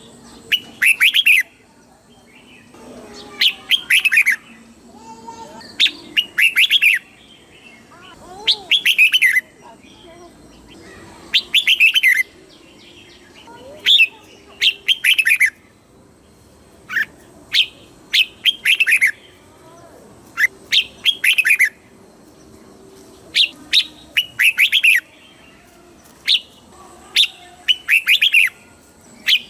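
Red-whiskered bulbul singing: short, quick, bubbly phrases of several notes, repeated about every two to three seconds, with fainter chirps of other birds between them.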